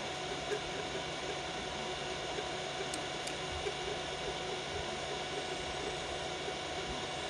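Biqu BX 3D printer printing at 120 mm/s: a steady whir of its fans and stepper motors, with a few faint ticks.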